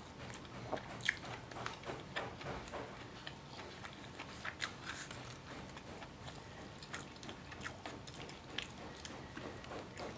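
A person chewing and biting a mouthful of rice and fried chicken close to the microphone: irregular small crunches and clicks, the sharpest one about a second in.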